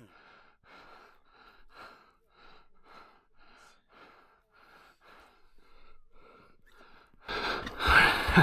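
A person breathing hard in short, quick, even breaths, about two a second, while holding up a large sturgeon. About seven seconds in, a sudden louder rush of noise cuts in.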